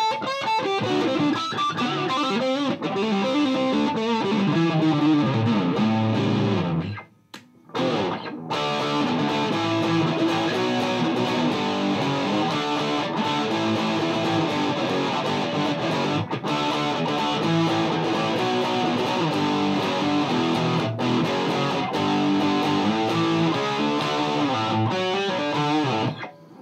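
Gibson Les Paul electric guitar played through a Mesa Boogie Dual Rectifier tube amp, channel 2 in Vintage mode switched down to 50 watts, into a Marshall 1960A 4x12 cabinet: distorted riffs and chords. The playing stops briefly about seven seconds in, then starts again.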